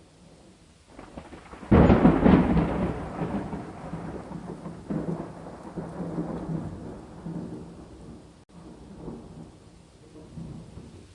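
A thunderclap breaks suddenly about two seconds in and rumbles away over several seconds, over steady rain.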